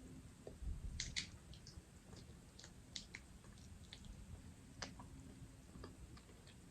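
A person eating a seafood boil: faint chewing with scattered small wet clicks and smacks.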